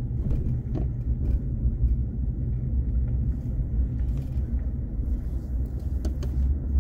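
Steady low rumble of a car heard from inside its cabin, with a few faint clicks or rattles.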